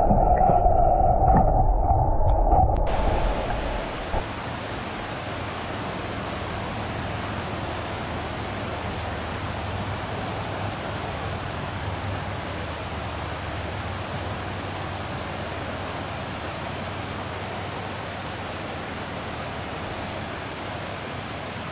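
Mountain creek rushing steadily over rocks, an even roar of water. It is preceded by a louder low rumble that cuts off about three seconds in.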